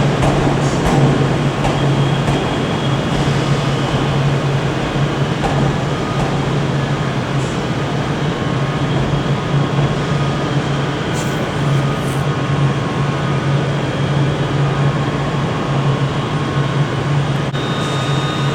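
Electric multiple unit train arriving at a station platform: a steady electric hum with the general rumble of the train.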